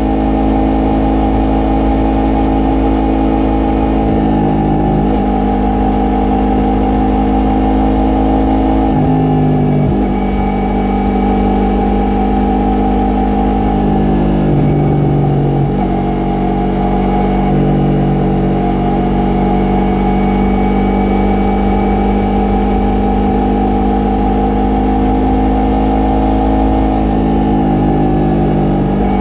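Yamaha MT-03's 321 cc parallel-twin engine and exhaust under way on the road, the note holding steady and then stepping to a new pitch several times as the rider changes throttle and gears, over a low rumble of wind and road noise.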